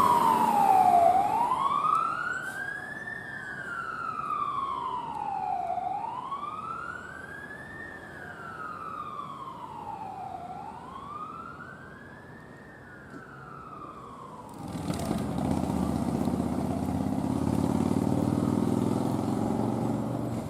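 Emergency vehicle siren on a slow wail, rising and falling about every four and a half seconds and fading as the vehicle moves away. About fifteen seconds in, the siren gives way to a steady rush of traffic or wind noise.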